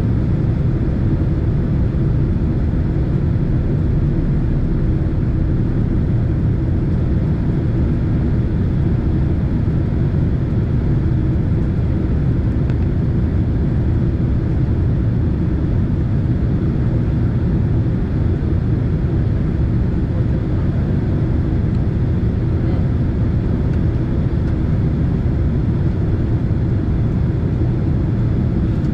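Steady cabin noise inside a Boeing 767 airliner in flight: an even, low rumble of engines and airflow, unchanging throughout.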